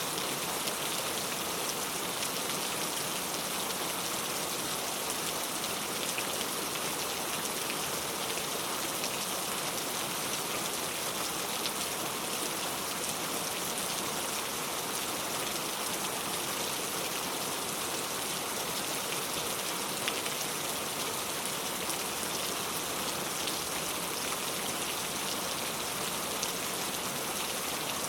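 Heavy rain falling steadily: a dense, even hiss of drops on surfaces, with a few louder single drop hits.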